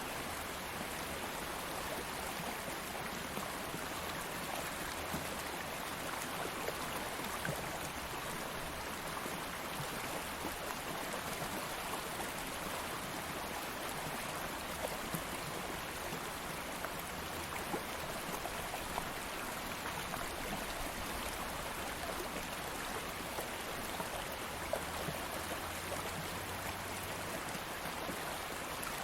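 Steady flow of a stream or small river: an even rush of running water with fine splashing and babbling.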